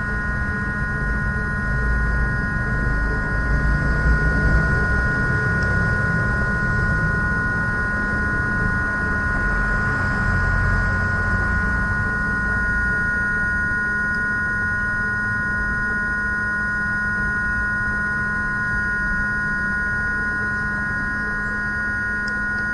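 Steady electrical hum with a constant whine of several high tones over a low rumble.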